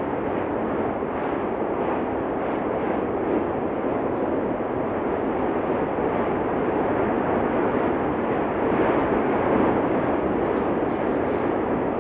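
Steady, continuous noise of the Cumbre Vieja fissure eruption, an even rumble without separate blasts that holds level throughout.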